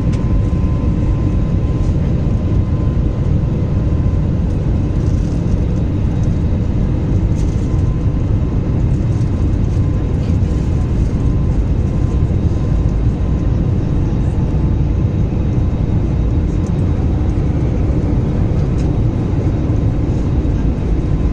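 Steady engine and airflow noise inside the cabin of a passenger airliner climbing after takeoff, an even low rumble with a faint steady whine.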